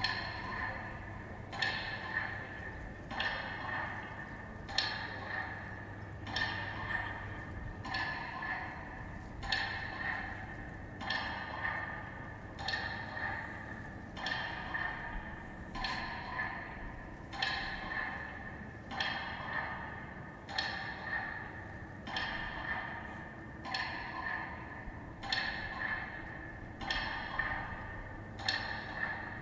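Metronome beating slowly for the minute of silence: one sharp, ringing tick about every second and a half, each echoing out before the next.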